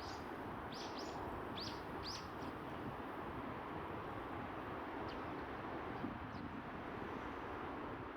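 Oriental greenfinches giving short, high chirping calls, several in the first two seconds and a few fainter ones later, over a steady background rush.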